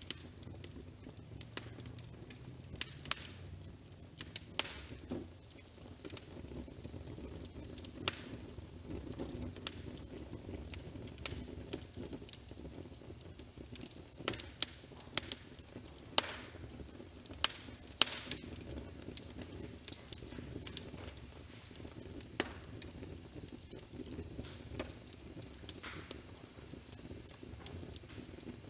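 Wood fire crackling in a fireplace: a steady low rumble of flames with irregular sharp pops and snaps, a busier run of loud pops in the middle.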